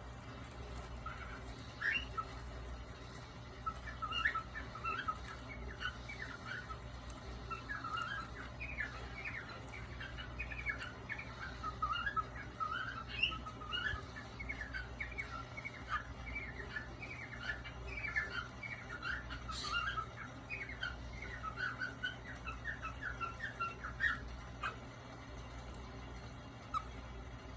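Pet cockatiels chirping and chattering in a rapid string of short calls that thins out near the end.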